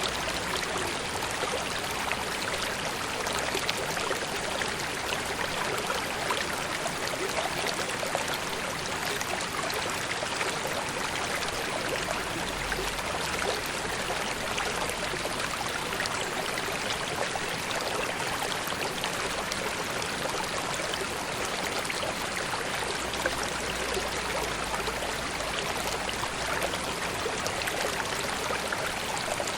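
River water flowing and babbling steadily, a continuous rush with small trickling splashes.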